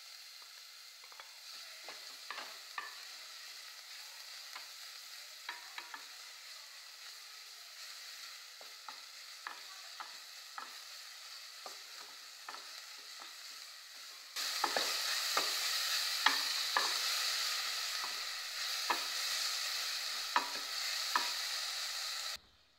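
Onion, garlic and ginger paste frying in oil in an aluminium pot, sizzling steadily while a wooden spoon stirs and scrapes against the pot in frequent light clicks; the paste is being browned. The sizzle gets suddenly louder about two-thirds of the way through and cuts off just before the end.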